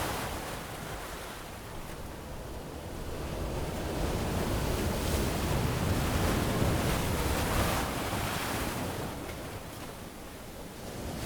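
Ocean waves washing onto a beach, the surf swelling and ebbing in slow surges, with the loudest wash a few seconds in and a lull near the end.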